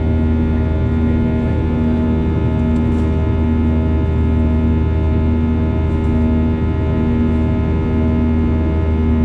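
Cabin drone of a Boeing 737-800's CFM56 jet engines in flight: a steady low roar with a hum that swells and fades about every second and a half.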